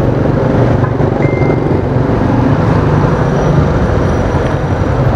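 Motorcycle riding through city traffic: a steady rumble of its engine and the passing traffic, with heavy low noise on the microphone.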